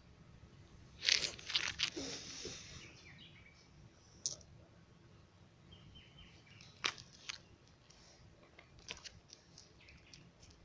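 Faint bird chirps and short tones, broken about a second in by a loud crackling rustle lasting a second or so, then a few sharp clicks.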